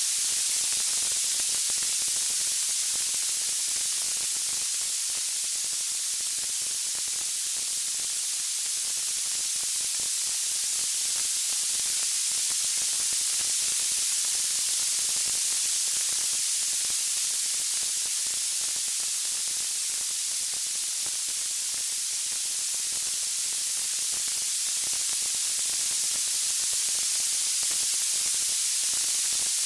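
Steady, high-pitched hiss like white noise, from a synthetic wood-fire sleep track, swelling and easing slightly and slowly, with no distinct crackles or pops.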